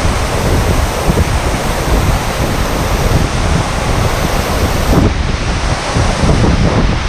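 Stewart Falls, a 200-foot two-tier waterfall, heard from right at its base: a loud, steady rush of falling water and spray.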